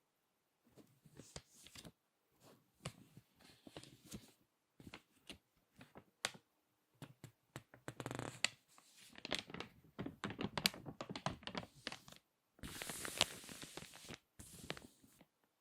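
Crinkly magazine pages crackling as they are handled, turned and squeezed by hand. The crackling comes in irregular bursts of sharp clicks with short quiet gaps, with a longer, denser stretch near the end.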